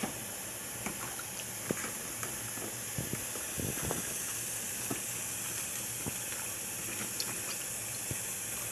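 Steady hiss of pots cooking on a stovetop, with scattered light knocks and rustles as kale is put into a steamer basket.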